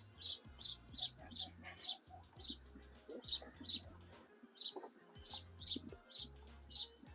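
A small bird chirping over and over, about two to three short high chirps a second.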